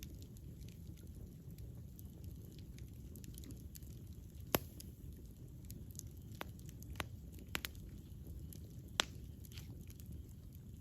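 Wood campfire burning: scattered sharp crackles and pops, the loudest about four and a half and nine seconds in, over a low steady rumble of the flames.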